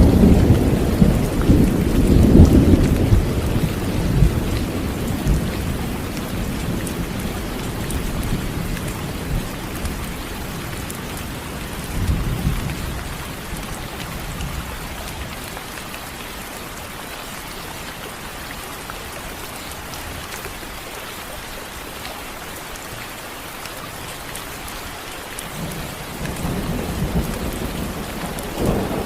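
Steady rain with rolling thunder: a long low rumble that fades over the first few seconds, a shorter one about twelve seconds in, and another building near the end.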